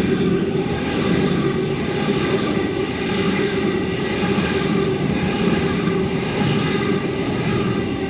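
Sydney Trains A set (Waratah) electric multiple unit passing through the station: a steady whine from its traction motors over the rumble of its wheels on the rails.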